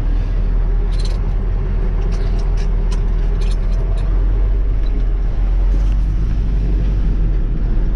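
Kirovets K-700A tractor's diesel engine running steadily at working revs, with a few short knocks in the first half.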